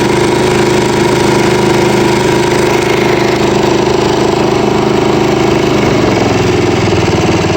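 Honda walk-behind lawn mower engine running steadily. About six seconds in its note drops to a lower pitch.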